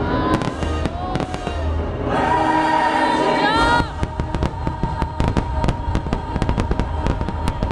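Fireworks going off over the show's music: a steady stream of bangs that becomes a dense, rapid run of sharp reports from about four seconds in.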